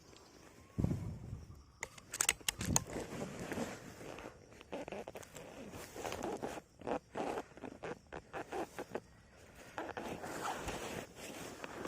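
Irregular scraping and rustling, with a run of short sharp clicks.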